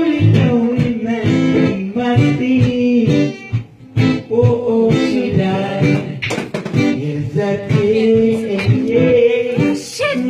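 Guitar strummed and picked, with a voice singing along without clear words, and a brief break in the playing a little over three seconds in.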